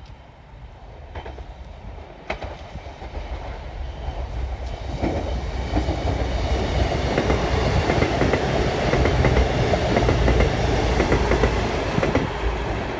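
Intercity passenger train approaching and passing at speed. A rushing rumble builds over several seconds and is loudest through the middle, with rapid clicking of the wheels over the rail joints as the carriages go by, then begins to fade near the end.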